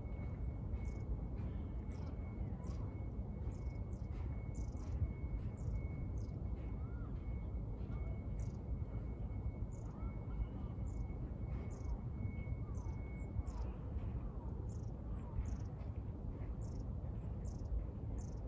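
Small birds chirping, short high falling notes about once or twice a second, over a steady low rumble of outdoor background noise.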